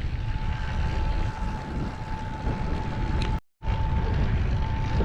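Wind buffeting the microphone during a mountain e-bike ride, a dense low rumble with a steady thin whine above it. The sound cuts out completely for a moment a little past three seconds in.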